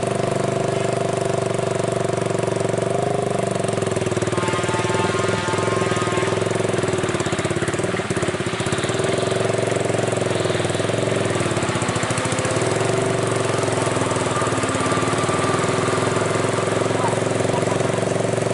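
Heavy truck engine running steadily under load, a constant low mechanical drone.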